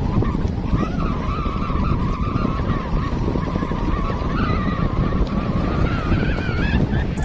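Strong gusty wind buffeting the microphone in a continuous rumble, with a wavering whistling tone over it that rises a little near the end.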